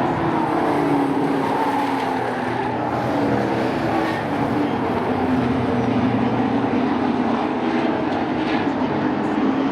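A pack of short-track sport trucks racing around the oval, several engines running hard at once, their pitches rising and falling as they lap.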